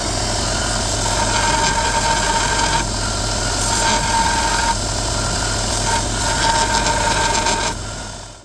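Mains-powered power tool running and abrading metal, its motor humming under a harsh grinding-rubbing noise. A ringing tone comes and goes as the work is pressed on and eased off. The tool is switched off near the end and winds down.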